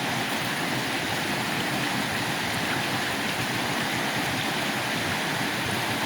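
Small clear river flowing over rocks: a steady, even rushing of running water.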